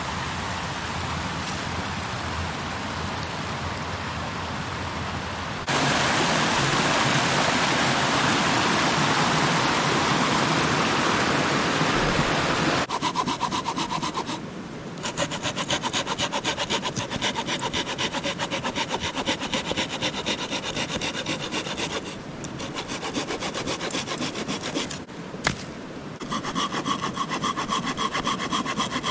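Firewood being cut with a hand saw: a steady rasping of the blade in quick back-and-forth strokes, with a few short pauses. The first half holds a louder, even rushing noise.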